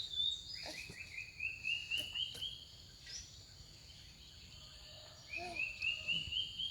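A songbird singing: twice, a run of about ten quick chirping notes that climb step by step in pitch, over a steady high buzz in the background.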